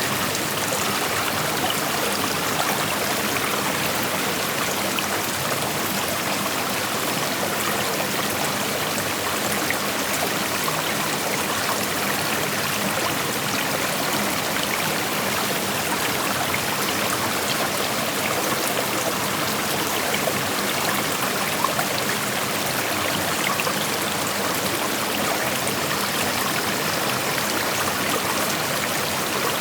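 Shallow creek flowing over rocks: a steady rushing and babbling of water with small splashes and trickles.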